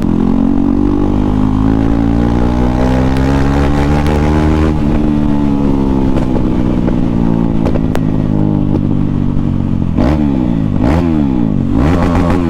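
KTM Duke 390 single-cylinder engine running with no muffler, pulling and rising slowly in pitch for the first few seconds, then easing back. Near the end it is revved sharply up and down several times.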